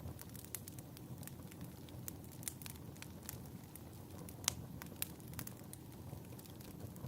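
Fireplace crackling: a steady low rumble of burning wood with irregular sharp pops and snaps, the loudest pop about halfway through.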